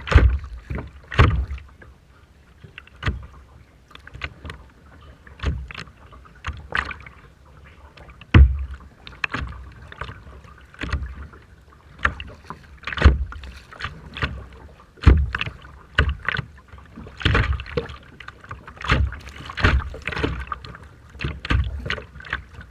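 Rough sea water splashing and slapping in irregular bursts every second or two.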